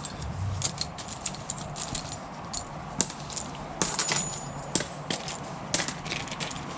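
Coins and small scrap-metal finds clinking against each other as they are picked through and dropped by hand, a run of irregular sharp clicks and chinks.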